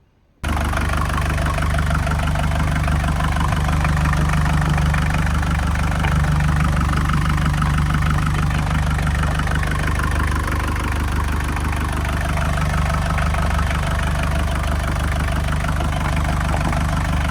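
Volvo Penta D2-55 four-cylinder marine diesel running steadily, cutting in suddenly just after the start.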